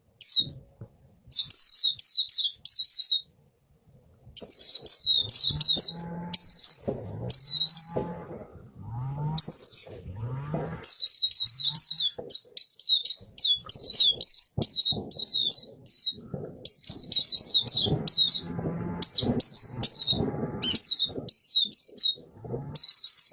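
White-eye (pleci) singing in quick phrases of rapid, high chirping notes, each phrase about a second long with short pauses between. Fainter lower sounds with gliding pitch lie underneath at times.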